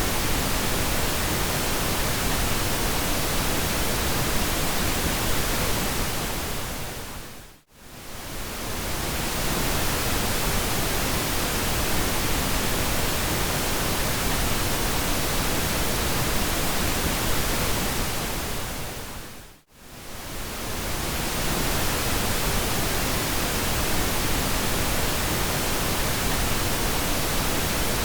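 Steady synthetic pink noise, an even hiss, that fades smoothly down to near silence and straight back up twice, about eight seconds in and again about twenty seconds in.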